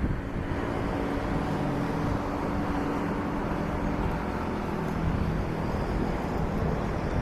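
A train running past: a steady rumble with an engine drone whose pitch shifts slightly.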